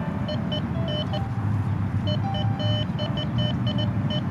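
Metal detector giving short, irregular beeps at slightly varying pitches as its coil is swept over the ground, signalling buried metal beneath it. A steady low rumble runs underneath.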